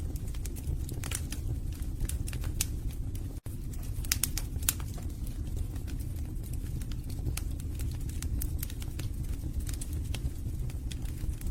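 Wood fire burning in a fireplace: irregular sharp crackles and pops from the logs over a steady low rumble of the flames. The sound cuts out for an instant about three and a half seconds in.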